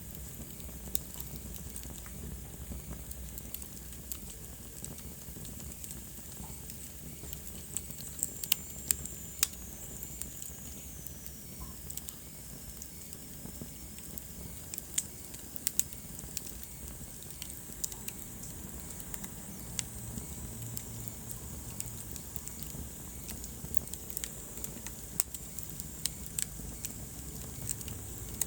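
Wood fire burning in a fireplace, crackling with frequent sharp pops over a low steady rumble. A faint high hiss slides down in pitch about eight seconds in.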